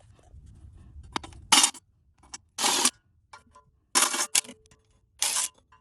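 Ratchet wrench clicking in four short strokes about a second apart, tightening the bolts of a replacement engine cover.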